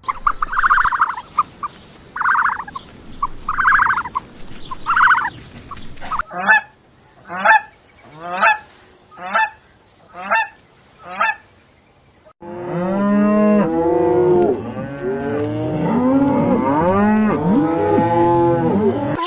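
Farm animals calling in three spliced clips: first about five repeated calls, then six sharper calls about a second apart, then from about halfway a chorus of many animals calling over one another.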